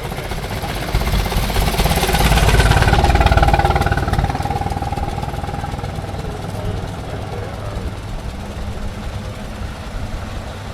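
An antique car drives close past with its engine running, its rapid firing pulses and a steady whine swelling to their loudest about two to four seconds in, then fading away.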